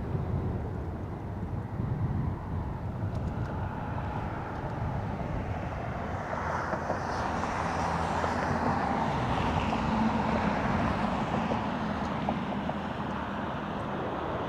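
Jet aircraft engine noise building up and passing, loudest about ten seconds in, with a whine that shifts in pitch as the aircraft goes by.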